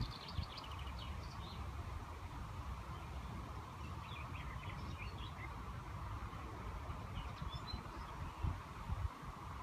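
Scattered small bird chirps, a few short calls near the start, around the middle and near the end, over a steady low background rumble.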